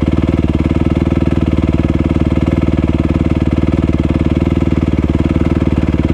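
Dirt bike engine idling steadily and loud, close to the microphone, with no revving.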